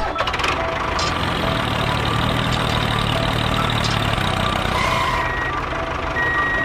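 A tractor engine idling steadily, with a deeper pitched hum in the middle stretch. Short high beeps sound twice near the end.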